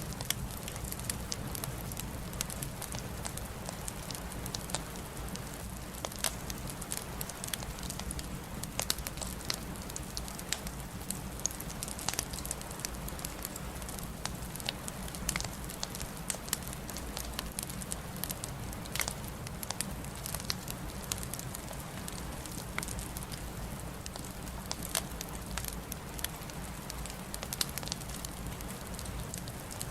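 Wood fire crackling, with many sharp irregular pops and snaps over a steady low rumble and soft hiss.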